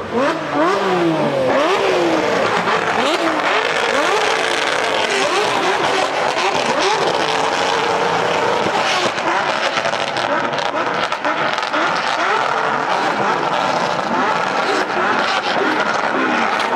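Porsche 992 GT3 RS's naturally aspirated flat-six through a loud Brillsteel Edizioni Corsa aftermarket exhaust, revving hard on track. In the first half the pitch climbs and drops again and again with the gear changes, then it settles into a steadier, denser sound.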